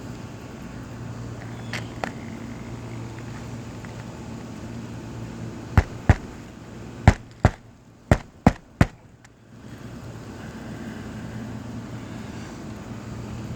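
Seven sharp knocks from about six to nine seconds in, each a few tenths of a second after the last, as nails are driven to fasten a replacement asphalt shingle, over a steady low hum.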